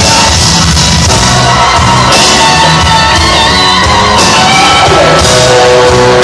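Live blues-rock band playing loudly, with sustained, bending pitched notes over a steady drum and bass pulse and a voice shouting over the band.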